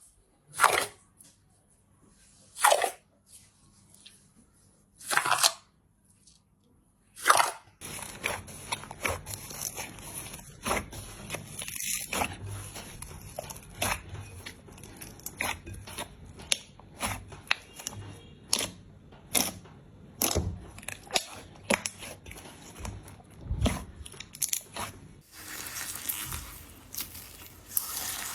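Slime being squeezed and pressed, making crunchy squishes. A few separate squishes come about two seconds apart. From about eight seconds in there is a dense run of crackling, popping clicks, which turns to a hissing crackle near the end.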